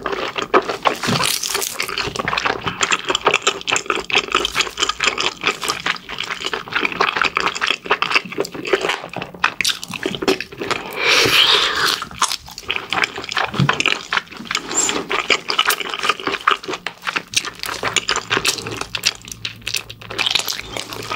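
Close-miked eating sounds of someone chewing mala-sauced pig's trotters: a dense run of small clicks and mouth smacks with a few louder bites.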